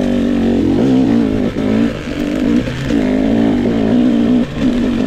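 Two-stroke enduro motorcycle engine, a GasGas EX 250, revving up and down as the throttle is opened and rolled off several times while riding.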